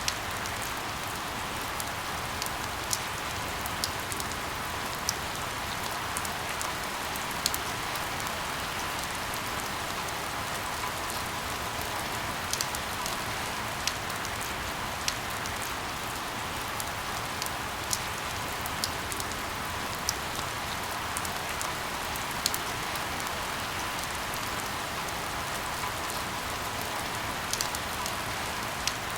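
Steady rain falling, a constant hiss with scattered sharper drips and taps standing out every second or two.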